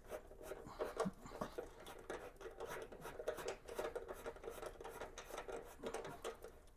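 Faint irregular clicks and scrapes of a nut driver turning a bolt into a chrome front-wheel trim cover.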